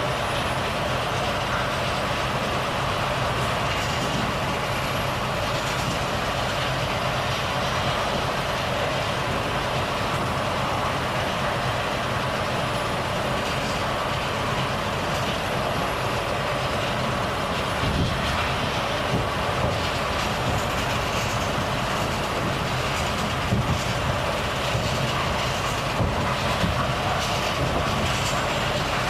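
Volvo FH truck engine running at a steady pace, with even road and tyre noise while driving. A few short knocks come near the end.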